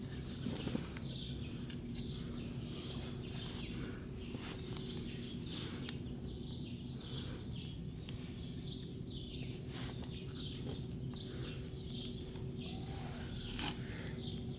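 Small birds chirping over and over above a steady low hum, with a few faint clicks and rustles as the greasy CV axle is handled and wiped with a rag.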